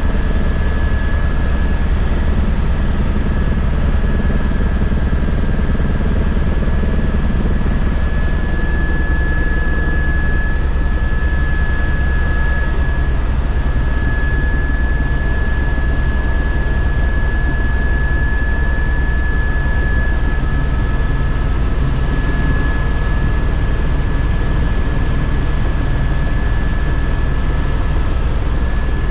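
Airliner engines and airflow heard from inside the passenger cabin in flight: a steady, unbroken low rumble with a thin high whine held over it.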